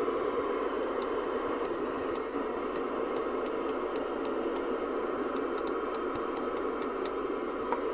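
Sapphire X4000 UK FM CB radio's receiver hissing steadily with band noise through its speaker while on the aerial, as the channels are flicked through. A run of faint ticks comes in the middle.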